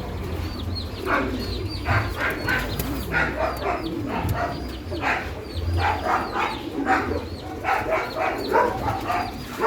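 Dogs barking over and over in short runs, with small birds chirping high above them.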